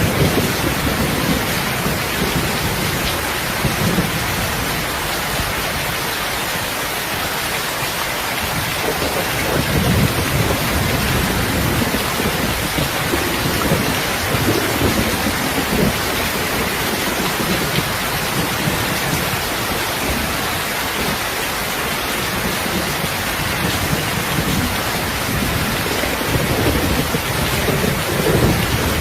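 Steady heavy rain hissing, with low rumbles swelling and fading a few times.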